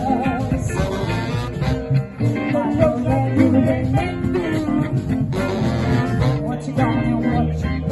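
Live band music, an instrumental passage with guitar over bass and drums.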